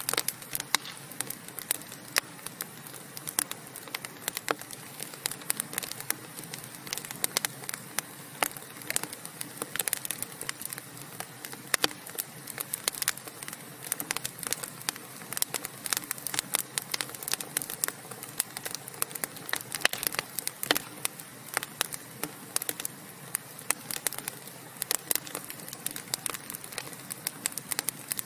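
Wood fire burning in a fireplace: a steady hiss with frequent irregular crackles and sharp pops from the burning logs.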